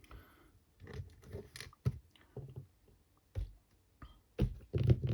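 Scattered clicks, knocks and scrapes from hands handling the parts of a cordless screwdriver during reassembly, with a louder stretch of handling noise near the end.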